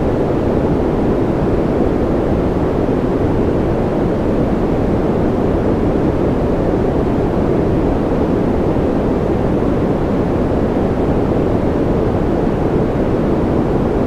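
Continuous sleep-aid white noise: a steady, unchanging hiss, low and muffled in tone, with most of its energy in the bass and little treble.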